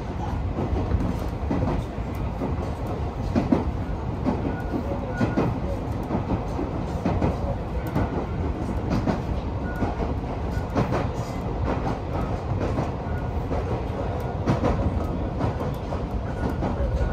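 Alpico Kōtsū Kamikōchi Line electric train running along the track, heard on board: a steady low rumble with irregular knocks and clicks from the wheels on the rails.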